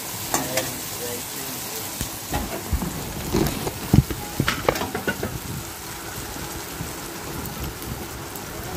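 Kochur loti (taro stolons) and dried fish sizzling as they fry in a steel wok, with a metal spatula scraping and knocking against the pan as they are stirred. The knocks stop about halfway through while the sizzle goes on.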